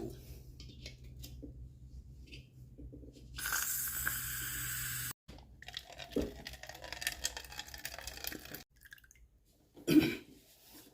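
Pancake air compressor tank's drain (bleeder) valve being worked open: faint scraping and clicks, then compressed air hissing out steadily for about a second and a half before cutting off suddenly, followed by irregular sputtering and dripping as condensate water is expelled from the tank.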